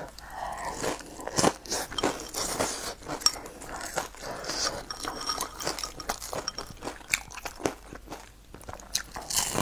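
Close-up chewing and crunching of crispy fried, breaded food and rice, with many short crackles and clicks of biting, and chopsticks working in a ceramic bowl.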